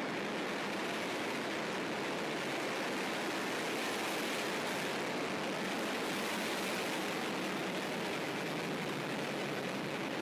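Soyuz rocket engines at full thrust just after liftoff: a steady, even rushing noise with little deep bass.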